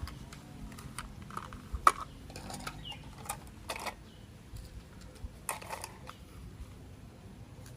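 Plastic toy train parts being handled and fitted together: scattered small clicks and short rustles at an uneven pace, the sharpest click about two seconds in.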